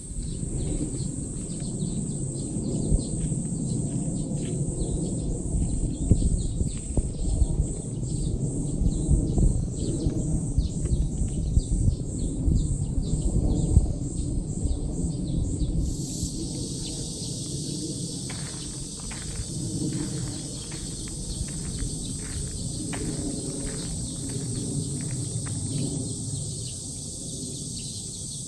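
Cicadas singing in chorus: a constant high buzz, with pulsing rhythmic calls for about the first half that give way to a broader, steadier buzz. Short repeated bird chirps come in over it in the second half, and a low rumble runs underneath, heavier in the first half.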